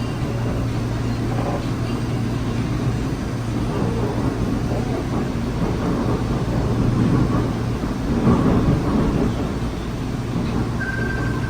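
LRT-2 light-rail train running between stations, heard from inside the car: a steady low hum over the rumble of wheels on the rails, growing a little louder midway. A brief thin high whine near the end.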